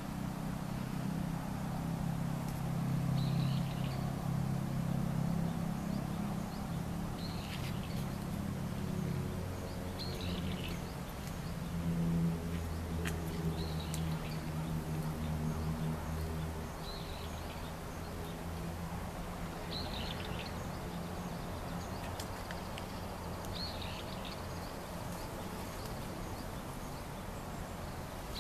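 A bird calling outdoors, a short high call repeated roughly every three seconds, over a steady low mechanical hum.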